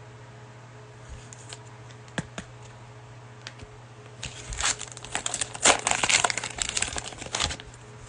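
A plastic cello pack of trading cards is torn open and its wrapper crinkled, in dense crackling from about four seconds in until near the end. A few light clicks come before it.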